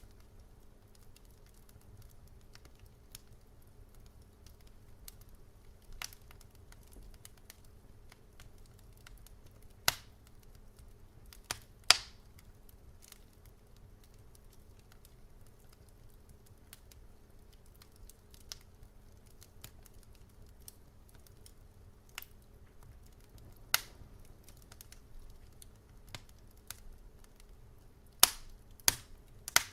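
Wood fire in a fireplace crackling, with sharp, irregular pops over a low, steady rumble; the loudest pops come about 10 and 12 seconds in and in a quick cluster near the end.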